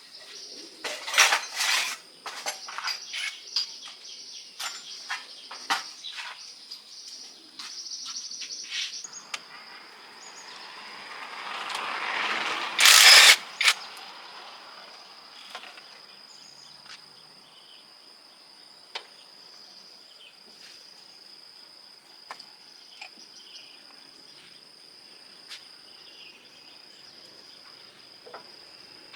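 Scattered clinks and knocks of work with tools, then a swelling hiss that ends in a loud burst about a second long, followed by sparse ticks, over a steady high insect chirring.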